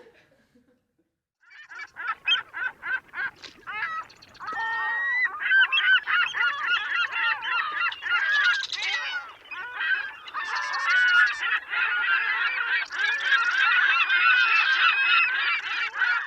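A flock of birds calling: a few separate calls begin about a second and a half in, then build into a dense, overlapping chorus from about five seconds in.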